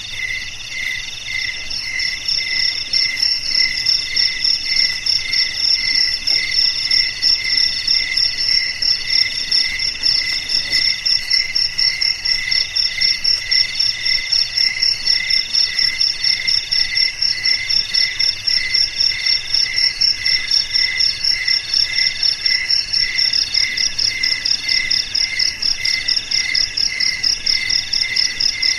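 A chorus of crickets chirping, with several overlapping calls at different pitches. A fast, high pulsing call strengthens about two seconds in over steady, lower, evenly spaced chirps.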